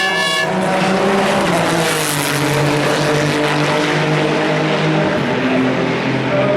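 Racing car engine passing at the Le Mans circuit, running loud with a wash of tyre and wind noise that peaks about two seconds in, its engine note dropping in pitch as it goes by, then settling to a steady drone.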